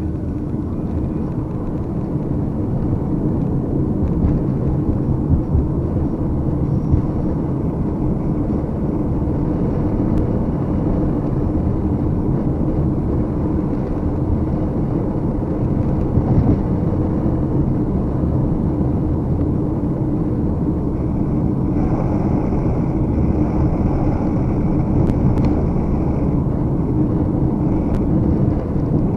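Steady low rumble, muffled as if through a bag, with a faint steady hum under it.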